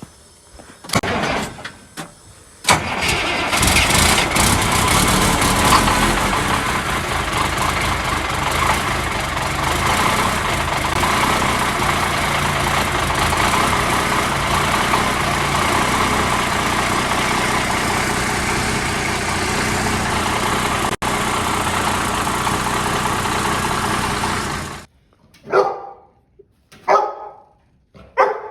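Ford L9000 dump truck's M11 Cummins diesel cranking briefly, then catching and running loud and steady for about twenty seconds before it cuts off suddenly. Its exhaust is one the owner says has been getting bad. A dog barks several times near the end.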